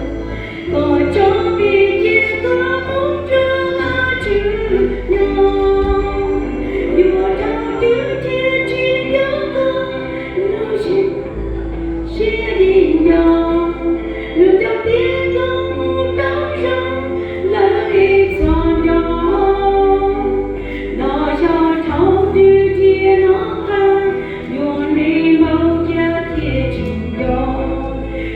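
Church congregation singing a hymn, mostly women's voices, over sustained low bass notes that change every few seconds.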